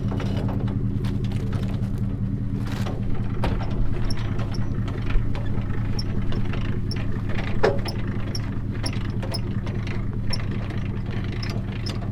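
A vehicle engine idling steadily, with scattered sharp clicks and knocks on top.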